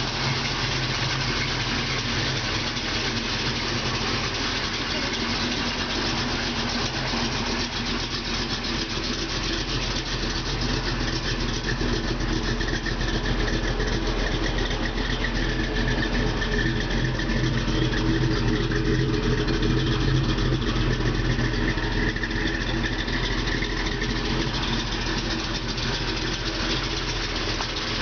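Early-1970s Chevrolet Monte Carlo's V8 engine idling steadily.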